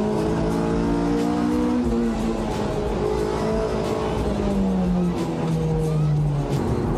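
Honda Integra Type R DC5's K20 four-cylinder engine running as the car drives along, its pitch slowly easing down, with a sudden change in pitch near the end. Background music plays along with it.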